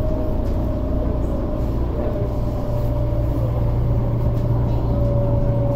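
Inside an MTR Tung Chung Line train running at speed: a steady low rumble with a steady whine above it.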